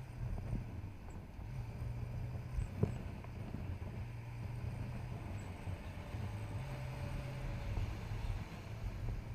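Motorcycle engine running while riding, a steady low hum whose note shifts slightly, with one sharp knock about three seconds in.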